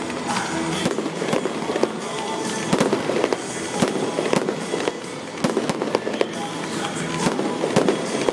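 Aerial fireworks bursting in a rapid, irregular string of bangs and crackles.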